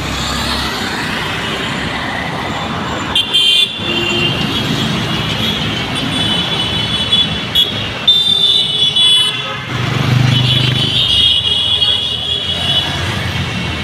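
Busy city road traffic, a steady rumble of engines and tyres, with vehicle horns honking several times, loudest about three seconds in and again in the second half.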